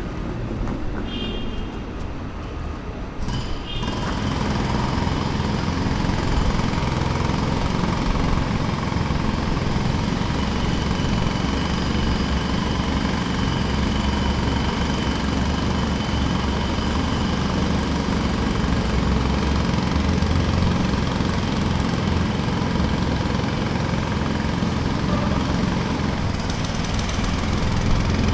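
Jackhammer running with rapid, steady hammering that gets louder about four seconds in.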